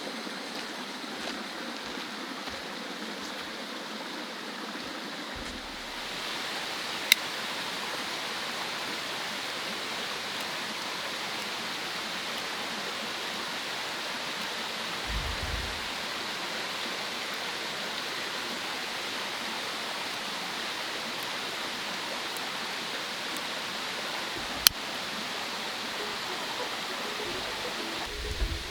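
Mountain stream flowing, a steady rush of water, with two sharp clicks far apart and a soft low thump midway.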